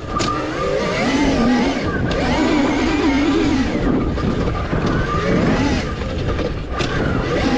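Revolt electric dirt bike being ridden, its motor whine rising and falling repeatedly with the throttle over a steady rush of low noise.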